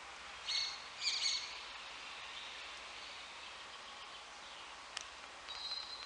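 Birds calling: two short, bright calls about half a second and a second in, then a single click and a thinner high call near the end, over a steady outdoor hiss.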